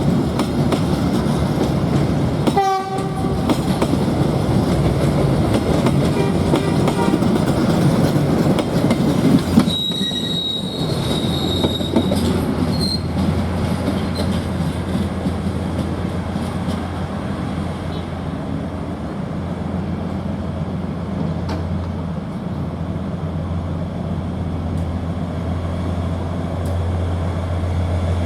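A train running over the rails with clattering wheels. It gives a short horn blast about three seconds in, and its wheels squeal briefly and high around ten seconds in. The clatter then gives way to a steadier low hum.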